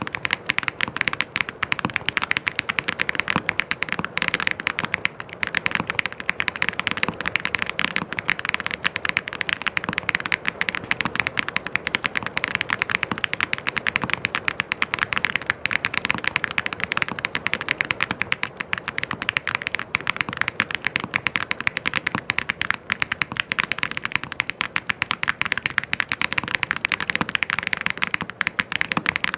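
Fast, continuous typing on a mechanical keyboard, a dense stream of key clicks.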